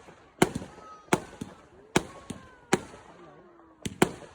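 Fireworks going off: a run of about five sharp bangs spaced roughly three-quarters of a second apart, with smaller cracks in between, each bang trailing off briefly.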